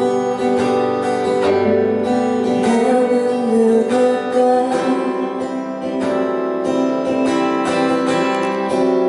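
Live music played on a strummed acoustic guitar with other instruments, with a woman singing a short line.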